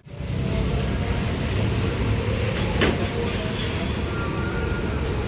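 Heavy truck driving past: a steady low engine rumble with road and tyre noise, and a short hiss about three seconds in.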